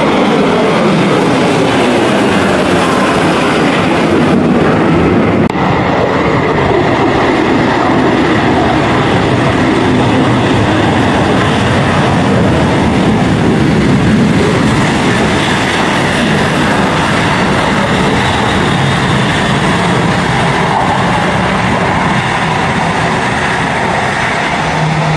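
Loud, steady aircraft engine noise from an aircraft passing close by, with tones that fall in pitch at the start as it goes past.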